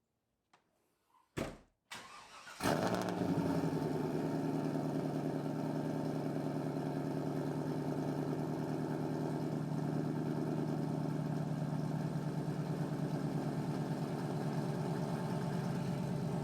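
The 5.7-litre LS1 V8 of a fourth-generation Pontiac Trans Am being cold-started to warm up: after a couple of clicks the starter cranks briefly, the engine catches about three seconds in, and it then idles steadily.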